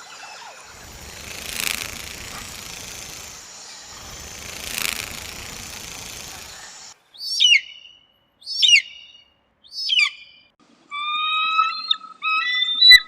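A rushing hiss that swells twice, then birds calling: three sharp whistles falling steeply in pitch, spaced a little over a second apart, followed near the end by longer, steadier calls.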